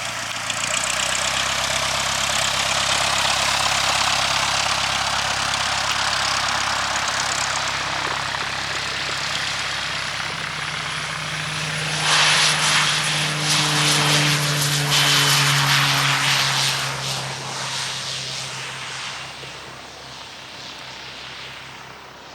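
Aircraft engine and propeller running: a steady drone that swells to its loudest about halfway through, with a gusty rush of air, then fades away near the end as the aircraft moves off.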